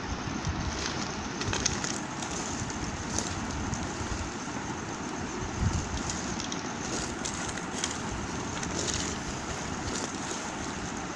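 Bars of Lux soap being handled and cut by hand: a continuous scratchy hiss with a few short, sharp clicks.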